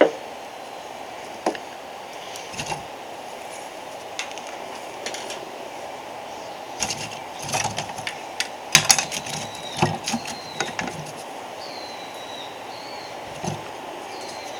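Scattered wooden and metallic knocks and clicks, as of firewood and roasting gear being handled at a wood fire, coming thickest in the middle, over a steady hiss. A bird chirps a few times near the end.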